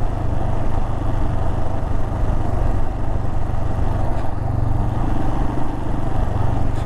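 Royal Enfield Himalayan's single-cylinder engine running steadily while the motorcycle is ridden along the road.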